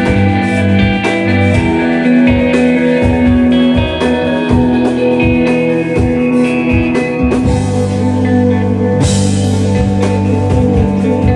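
A shoegaze rock band playing live: layered, sustained electric guitars over bass and a drum kit keeping a steady beat, with cymbals crashing in about nine seconds in.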